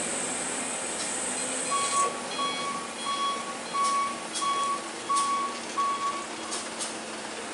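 Truck reversing alarm beeping at a steady pace, seven beeps one after another, starting about two seconds in and stopping near the end, over steady engine and road noise with a few sharp clicks.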